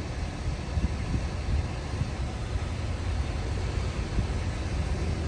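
Heavy diesel earthmoving machinery running with a steady low rumble.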